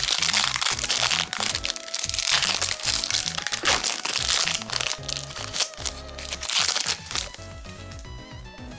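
Foil booster pack wrapper crinkling as it is torn open and handled, in loud crackling stretches that die away about seven seconds in. Background music plays under it.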